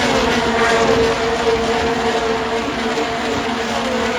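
IndyCar race cars' 2.2-litre twin-turbo V6 engines at full throttle on the oval, a steady, loud multi-car engine note. Cars go by with their pitch falling, again near the end.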